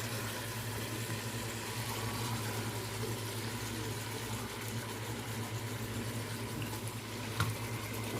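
Spiced chicken pieces sizzling in a pot on the stove, a steady hiss over a constant low hum, with one light knock near the end.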